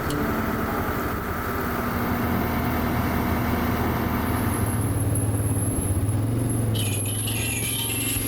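Takeuchi machine's diesel engine running steadily, with a thin high whine joining about halfway through.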